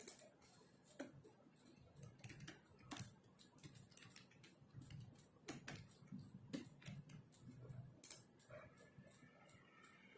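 Faint computer-keyboard typing: irregular keystroke clicks, some louder taps, in a quiet room.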